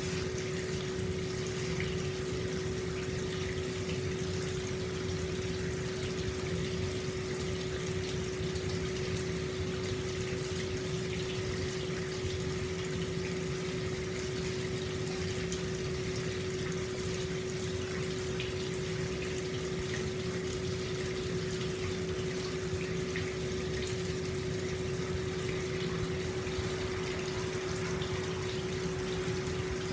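Hot spring water flowing steadily out into a bath and splashing into the tub, an even, unbroken rush with a steady low hum under it.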